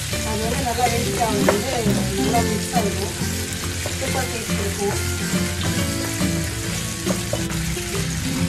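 Chopped garlic, dried chili and tofu sizzling in hot oil in a non-stick pan, with a wooden spatula stirring and scraping the food around the pan.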